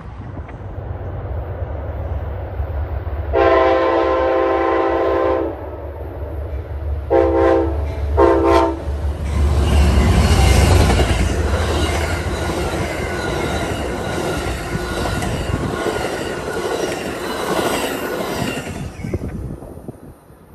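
A train approaching with a low engine rumble sounds its locomotive horn: one long blast, then two short blasts. The train then passes close by, its wheels clattering and squealing over the rails, and fades away near the end.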